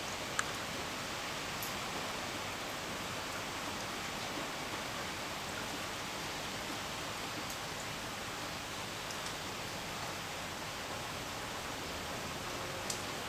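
Steady hiss of falling rain, with a couple of sharp ticks, one just after the start and one near the end.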